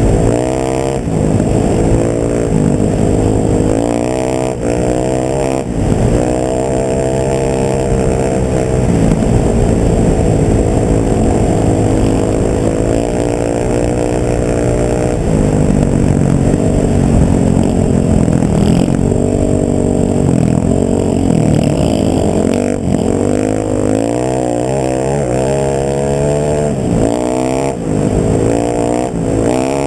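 A motor vehicle's engine running under way, its pitch rising and falling again and again as the engine speeds up and slows down, over a steady low rumble.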